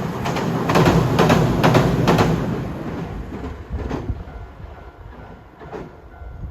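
A train running past, its wheels clacking over rail joints in a quick run of beats in the first couple of seconds, then fading away as it recedes.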